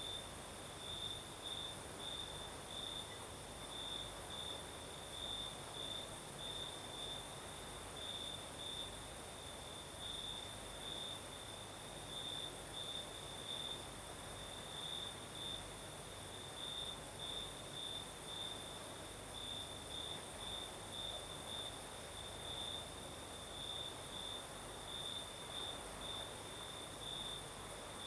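Crickets chirping steadily in quick repeated pulses at one high pitch, over a continuous, even higher-pitched insect trill.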